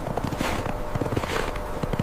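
Footsteps: a run of irregular steps, each a short thud with a crunching swish.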